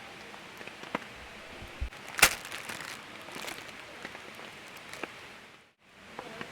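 Steady rain hiss with scattered drops ticking, and one sharp knock about two seconds in. The sound dips out briefly near the end.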